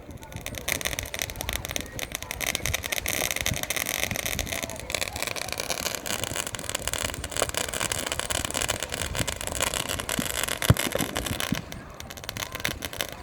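Fireworks crackling: a dense, rapid run of small sharp pops that starts just after the opening and cuts off shortly before the end, with one louder bang near the end.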